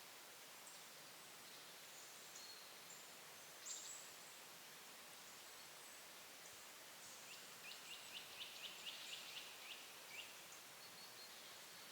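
Faint high calls of small woodland songbirds in quiet forest ambience, with a brief call about four seconds in. From about seven seconds in comes a quick trill of about fifteen notes, roughly five a second, each note sliding down.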